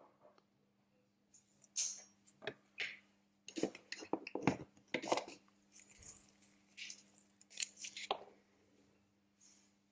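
Irregular light clicks, taps and scrapes of small tools and parts handled on a workbench during a phone back-cover repair.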